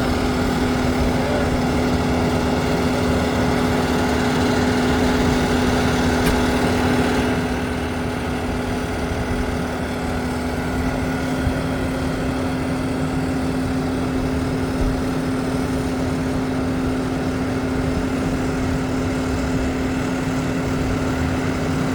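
Engine of a piece of farm machinery running steadily at raised throttle, easing off slightly about seven seconds in.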